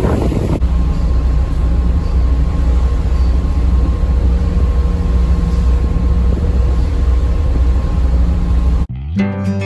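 Steady low engine drone of the car ferry Taiko, heard on board, with a faint steady hum above it. Near the end it cuts off abruptly and acoustic guitar music starts.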